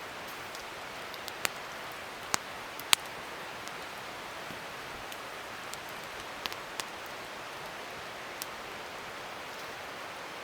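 Wood fire burning with a steady hiss and a few sharp crackling pops. The loudest pop comes about three seconds in.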